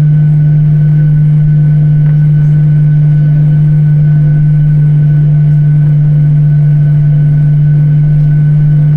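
Steady drone of a jet airliner heard inside the cabin in flight: a strong, even low hum with fainter steady higher tones from the engines and airflow as the aircraft climbs.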